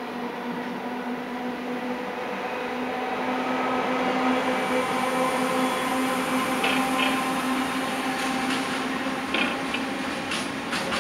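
Electric trains on station tracks: a steady electric hum that grows louder over the first few seconds, then sharp clicks of steel wheels over rail joints and points from about six seconds in, as an electric locomotive approaches.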